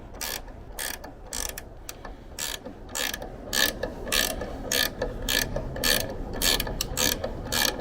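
Ratchet wrench with a 10 mm socket clicking in short back-and-forth strokes, about two clicks a second, as tailgate bolts are loosened. The clicks grow more regular and louder from about halfway.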